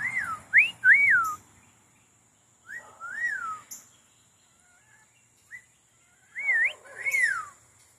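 Amazon parrot whistling: clear notes that swoop up and down, in three short bursts with pauses between.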